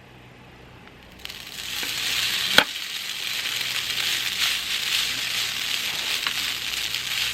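Food sizzling in a hot pan, starting suddenly about a second in as it goes onto the heat, with one sharp click a little later.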